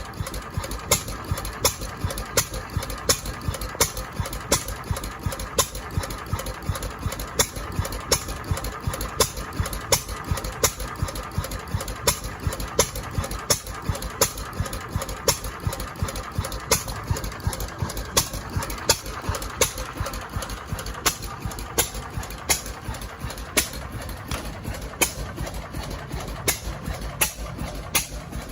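Big old Fairbanks Morse engine running steadily at slow speed: a low rumble broken by slow, regular sharp beats.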